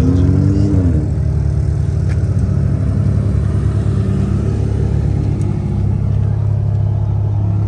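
Car engine running close by, a steady low drone with a short rise and fall in pitch just under a second in.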